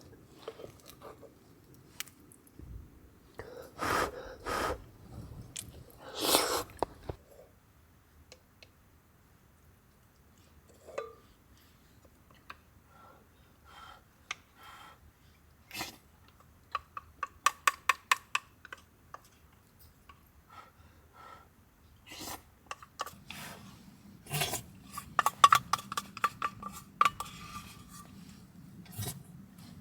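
A metal utensil clinking against metal cookware in quick runs of light taps, each with a short ring, about halfway through and again near the end, after a couple of soft rustles.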